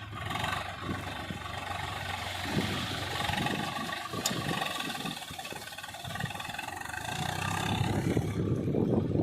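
Swaraj 744 FE tractor's diesel engine running steadily as it works in the puddled paddy mud, growing louder over the last couple of seconds.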